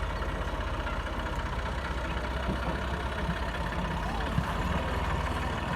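Diesel tractor engine running steadily with a low, even chug.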